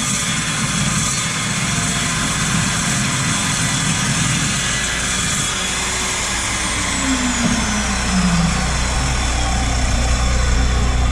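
14-inch low-rpm chop saw with a carbide-tipped blade cutting metal: a loud, dense noise with high ringing tones. About six seconds in, the saw's motor is switched off and winds down, its pitch falling over about three seconds, leaving a steady low hum.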